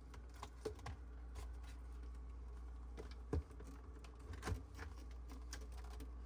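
Light scattered clicks and taps, with two louder knocks in the middle, over a steady low hum.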